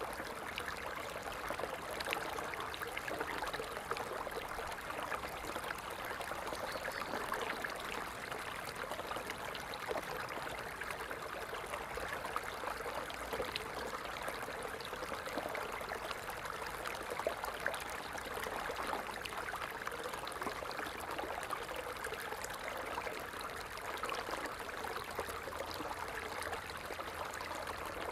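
Water falling and splashing in a continuous, steady stream, with fine trickling and splashing detail.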